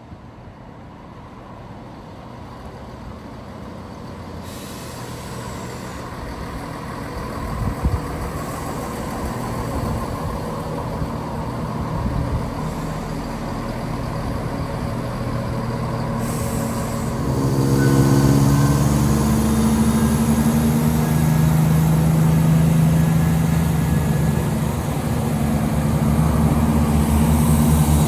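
Diesel passenger train approaching along the Highland line, its rumble growing louder until about two-thirds through, when the low, steady engine note comes in strongly and stays loud as the train draws into the station.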